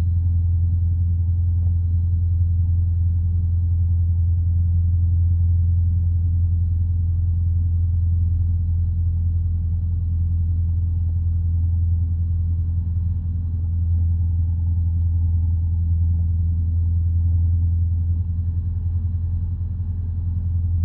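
Single-engine light aircraft's piston engine and propeller running steadily, heard as a low drone inside the cockpit during the approach to a touch and go.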